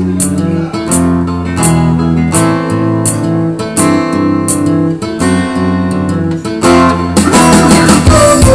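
Acoustic guitar strumming chords in a song's instrumental intro, with a regular stroke a little under a second apart. The playing grows fuller and brighter about seven seconds in.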